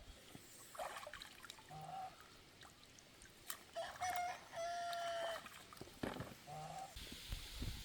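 A rooster crowing once about four seconds in, a short first note then a long held one, with a few shorter calls before and after.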